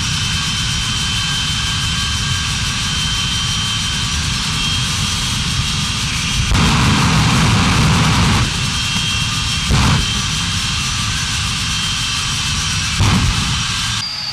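Monster truck engine running loud and continuously, with a steady high whine over it, surging louder with revving about six seconds in, again near ten seconds and once more near the end.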